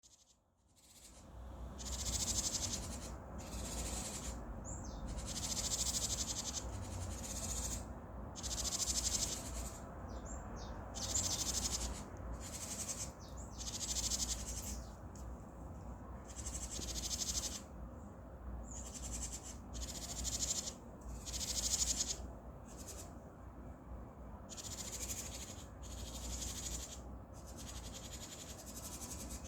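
Birds calling over and over in short, high, buzzy bursts with brief gaps, a few thin whistled notes mixed in, over a steady low rumble.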